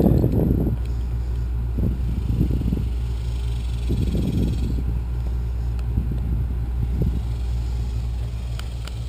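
A steady low hum, with scattered short knocks and rustles of handling.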